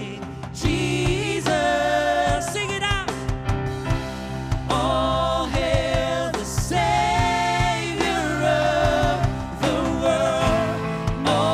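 Worship band playing a contemporary gospel song, with sung lines held over steady bass and drums.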